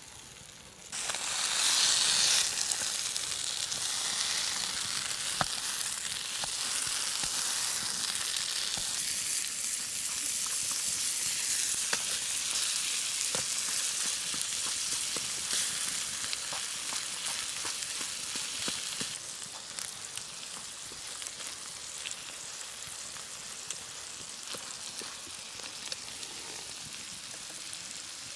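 Food sizzling in a hot pan over a campfire. The sizzle starts suddenly about a second in, as the food hits the heat, and is loudest at first. It settles to a quieter steady sizzle later on, with scattered pops throughout.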